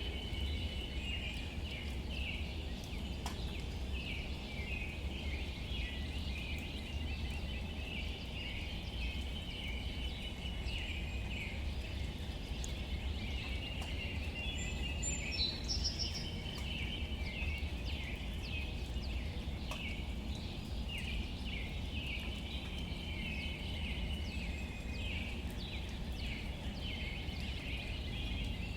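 Outdoor ambience: many birds chirping over a steady low rumble, with a brief high trill about halfway through and scattered faint ticks.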